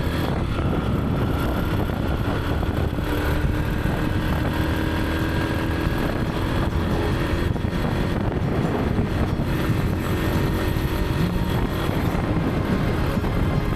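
Motorcycle riding along a highway: the engine runs steadily at cruising speed, with wind rushing over the microphone.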